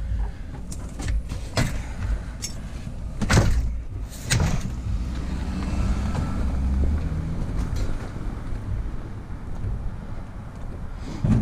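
Vehicle running with a steady low rumble, with a few sharp knocks and clanks about one and a half, three and a half and four and a half seconds in.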